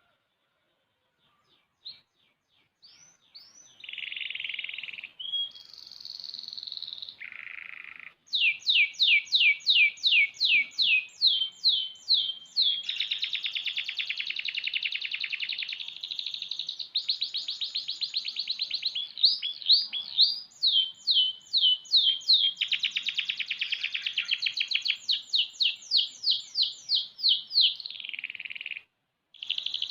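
Young domestic canary singing a long song: a few single chirps, then rapid runs of repeated falling whistled notes alternating with fast buzzing rolls. The song breaks off briefly near the end and starts again.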